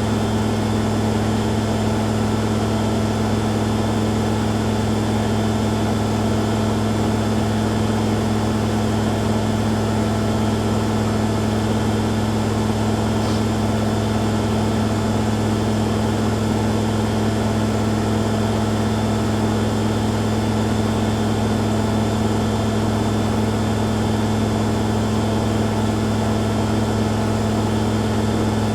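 Two washing machines, a Hoover Dynamic Next DXA610IW3 and a Beko Pro AquaTech WX94044EO, running their spin cycles together: a steady, even machine hum that holds the same pitch throughout.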